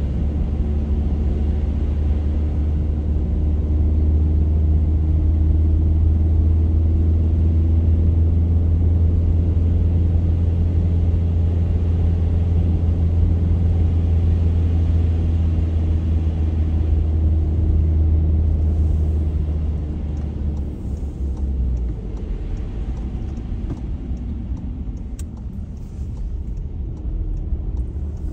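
Car driving on a snowy road, a steady low engine and road drone that eases off and turns quieter about twenty seconds in.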